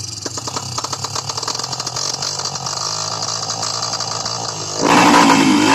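A small engine running close and steady, with a rapid rattling beat. About five seconds in it suddenly gets louder and its pitch wavers.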